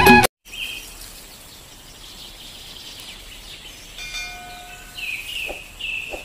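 Music cuts off at the very start, then faint outdoor ambience. From about five seconds in a bird chirps repeatedly, short falling notes about twice a second.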